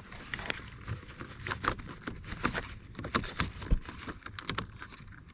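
Hand work at a car's steering column: a string of irregular clicks and light knocks as wiring and trim pieces are handled and fitted back in place.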